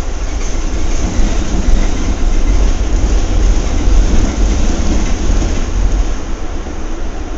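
Passenger train car running on the rails: a steady deep rumble with wheel and track noise, growing a little louder from about a second in and easing near the end.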